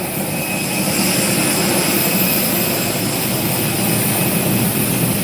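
Steady rush of aircraft turbine noise with a constant high whine, unchanging throughout.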